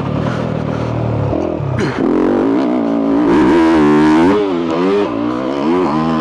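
2022 Yamaha YZ250F's four-stroke single-cylinder engine, with a full FMF exhaust, being ridden. It runs low for about the first second, then revs up and down several times as the throttle is worked.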